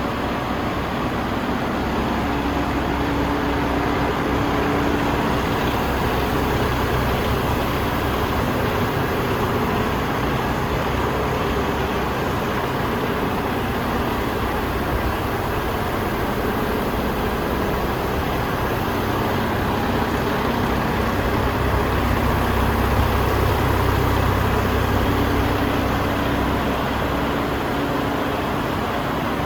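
Paccar MX 410 six-cylinder turbo diesel of a DAF XF105 tractor unit idling steadily, swelling slightly about three quarters of the way through.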